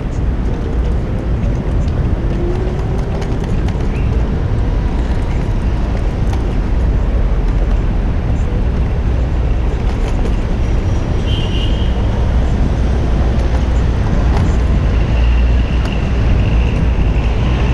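Wind rushing over an action camera's microphone on a moving bicycle, a steady low rumble, under city street traffic noise. A faint high-pitched tone comes in briefly past the middle and again near the end.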